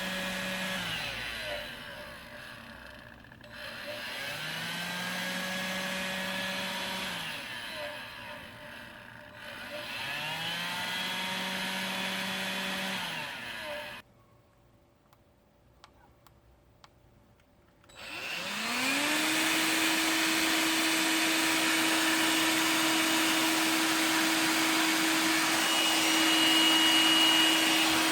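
Electrolux ZB3006 cordless stick vacuum motor, running on a refitted 18650 lithium-ion battery pack. It is switched on and off three times, each time spinning up with a rising whine, running a couple of seconds and winding down. After a few seconds' pause with small clicks, it starts again, rises to a higher pitch and runs steadily.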